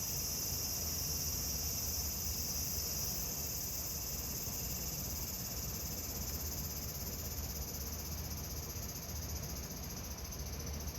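Cicadas singing in a continuous high-pitched drone, thinning a little near the end.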